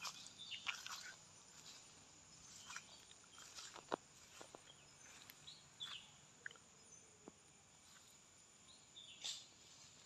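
Faint, scattered bird chirps over a steady high hiss, with a few soft clicks.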